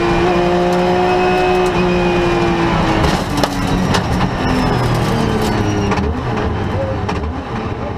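Rally car engine heard from inside the cabin, held at steady high revs, then dropping about three seconds in as the driver lifts and the revs rise and fall through gear changes. Sharp clicks and knocks are scattered through the second half.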